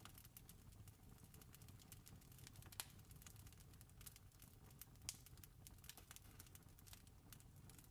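Faint campfire crackling: irregular small pops and snaps over a low steady rumble, with two sharper pops about three and five seconds in.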